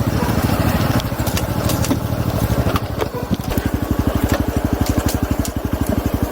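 Honda Super Cub 110's air-cooled single-cylinder four-stroke engine idling with an even low putter, about ten beats a second, with a few light ticks over it.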